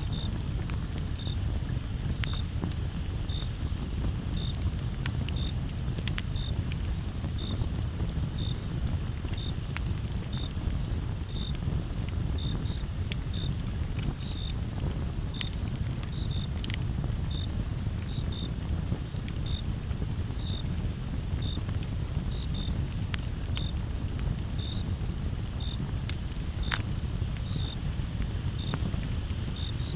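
A wood campfire crackling, with scattered sharp pops over a low steady rumble of flame. Crickets chirp about twice a second over a steady high insect trill.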